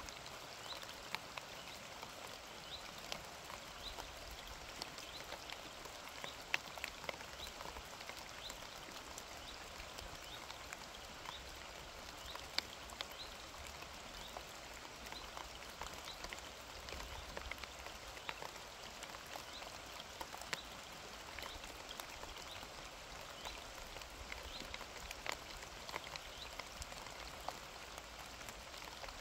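Steady rain falling, an even hiss scattered with many separate drops ticking on a surface.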